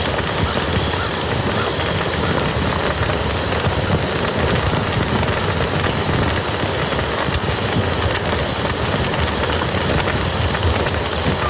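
Campfire crackling with small irregular pops and snaps over the steady rushing of a river.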